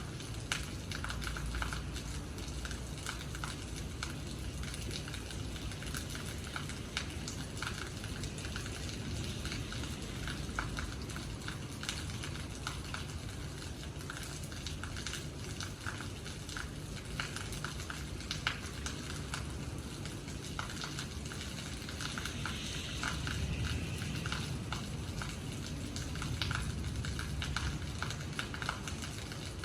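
Steady rain falling, with many individual drops tapping and dripping close by.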